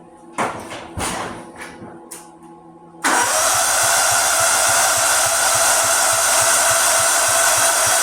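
A few knocks, then about three seconds in an old riding lawnmower's electric starter cranks the engine steadily, with an even chugging pulse, without the engine catching.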